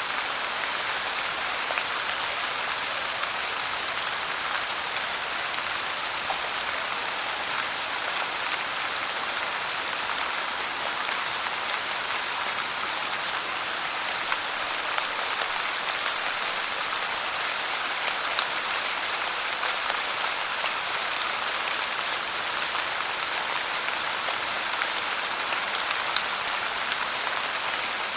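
Steady rain pouring down, with scattered individual drops ticking on a surface.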